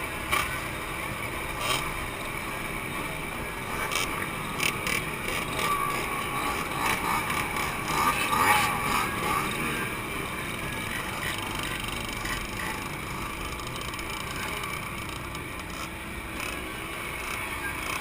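Two-stroke motorcycle engines running, their pitch rising and falling as they rev, with wind noise.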